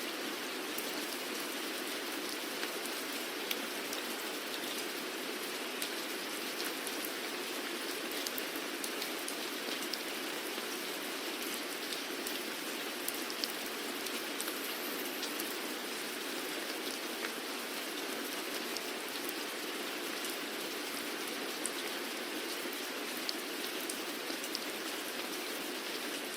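Steady rainfall, a dense even hiss of rain with scattered sharper drop ticks.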